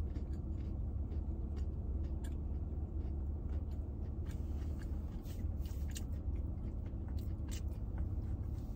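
A person chewing a crunchy breaded plant-based chicken nugget (KFC Beyond Fried Chicken) with the mouth closed: faint, scattered crunching clicks over a steady low hum.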